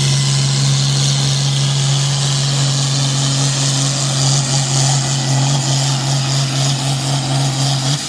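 Pulling tractor's engine running hard under load with a steady heavy drone and a thin high whistle above it, then cutting off suddenly near the end as the pull finishes.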